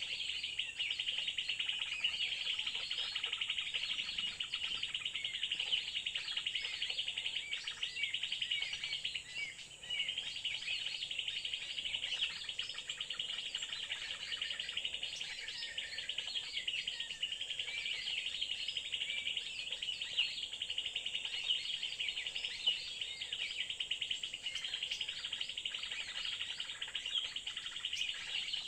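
Dense, continuous chorus of small birds chirping, over a steady high-pitched insect drone.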